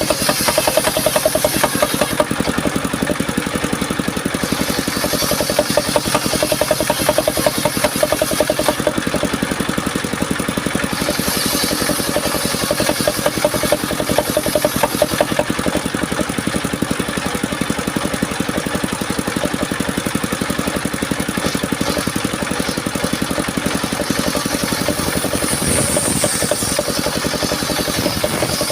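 Engine of a home-built circular sawmill rig running steadily, with a fast, even run of firing pulses and a high hiss that comes and goes several times.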